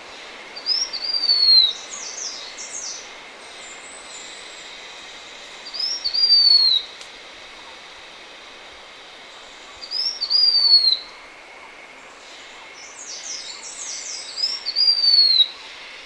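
Blue-winged minla singing: four high, thin phrases about four seconds apart, each a short rising note followed by a longer falling whistle. Quicker high chips sound around the first and last phrases, over a steady background hiss.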